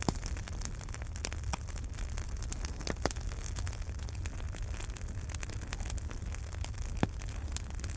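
Wood fire burning in a fireplace: a steady low rumble and hiss with constant small crackles, and sharper pops about three and seven seconds in.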